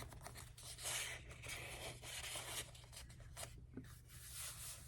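Faint rustling and sliding of paper and card stock as junk journal pages and inserts are handled, in a few short spells about a second in and again near the end.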